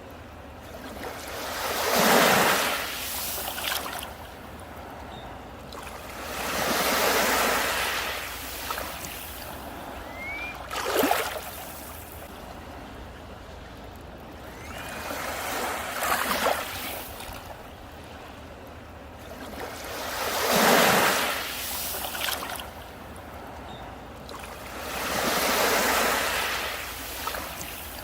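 Sea waves breaking on a beach, a wash of surf that swells and ebbs about every five seconds, with a few sharper splashes as waves crash. A few short rising chirps, like a small bird calling, are heard briefly.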